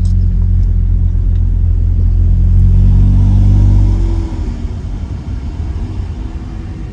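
Muffler-deleted 2017 Honda Accord LX's four-cylinder exhaust, heard from inside the cabin: a loud low drone under acceleration that rises in pitch, then drops off sharply about four seconds in as the throttle is released, leaving a lower, uneven rumble.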